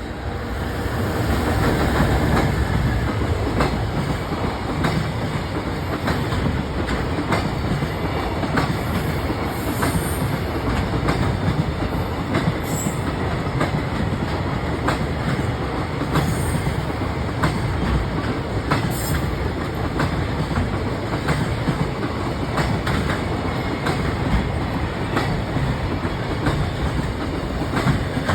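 Freight train of Koki container wagons hauled by an EF210 electric locomotive rolling past, growing louder over the first two seconds. A steady rumble of wheels with regular clickety-clack as the wheelsets cross rail joints.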